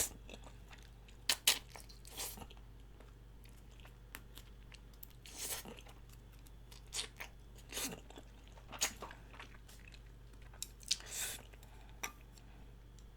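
A person chewing and crunching spicy chicken feet in broth: irregular wet mouth smacks and crunchy clicks of cartilage and bone, with a few louder crunches scattered through.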